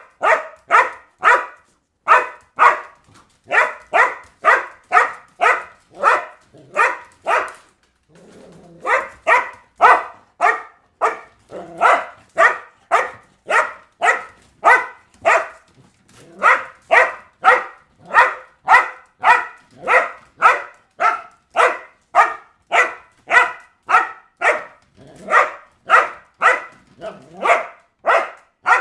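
A dog barking over and over, about two barks a second, with a short pause about eight seconds in.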